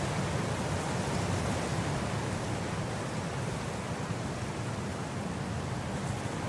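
Wind blowing steadily across grass: an unbroken rushing noise with a low rumble beneath it.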